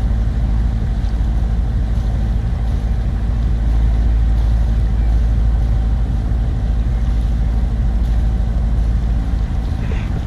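A sailing yacht's engine running steadily under way, a low, even drone with a constant pitch.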